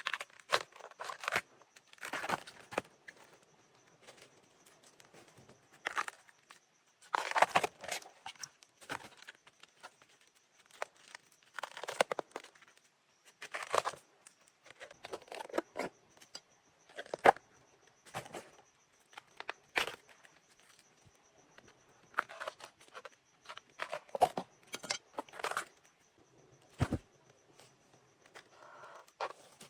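Irregular rustling, tearing and crackling as plant material is handled, coming in short bursts every second or two, over a faint steady high whine.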